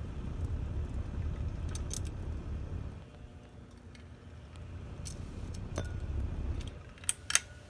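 For Living Oyster glass ceiling fan's motor running at medium speed with a low buzzing that swells and fades, which the owner takes for bearing noise. Two sharp clicks near the end.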